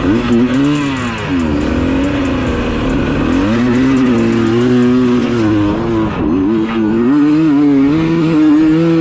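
Dirt bike engine running under throttle: its pitch drops and climbs again in the first couple of seconds, then holds fairly steady at high revs.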